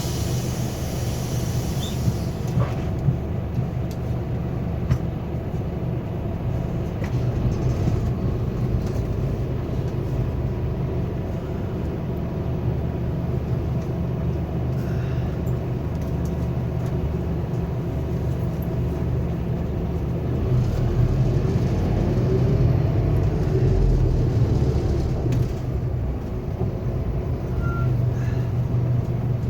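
Scania K280UB4 city bus heard from inside the cabin: the engine runs steadily under road and body rumble. There is a short hiss near the start, and the engine swells louder for a few seconds past the middle.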